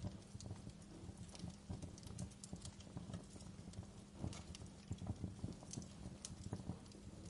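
Wood fire burning in a fireplace: logs crackling with irregular sharp pops and snaps over a low steady rumble.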